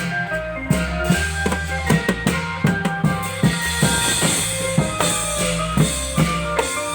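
Thai klong yao long-drum band music: drums beat a steady rhythm over sustained keyboard-like notes.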